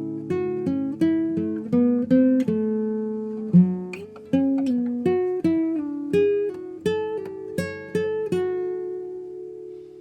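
Background music: an acoustic guitar playing a melody of single picked notes, the last one ringing out and fading near the end.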